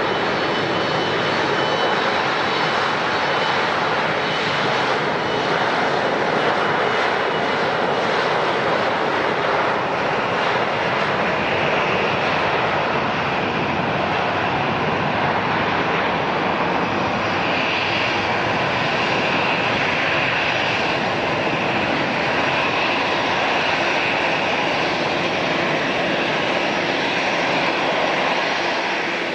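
Airliner engines running steadily nearby, a continuous rush of engine noise, with a faint high whine coming in about a third of the way through.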